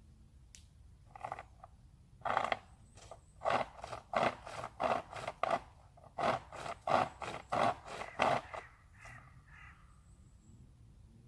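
Chain-type survival saw (a loop of chainsaw chain with handles) rasping through a branch in quick back-and-forth strokes, about two to three a second. The sawing starts about two seconds in and stops about nine seconds in.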